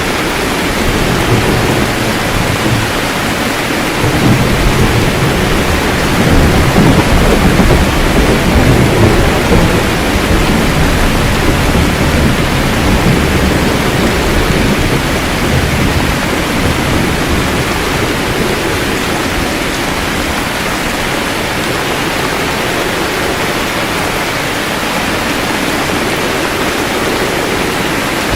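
Heavy rain falling steadily with low rolling thunder rumbling under it, the rumble swelling for a few seconds early on and easing off.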